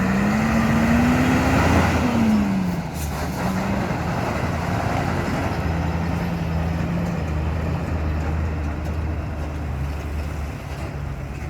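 Heavy Mercedes-Benz truck's diesel engine running, its pitch rising and falling over the first two seconds or so. It then drops and settles into a lower, steadier drone.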